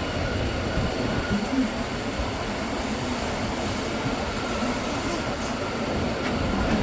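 Bernina train running along the track: a steady rumble and rolling wheel noise.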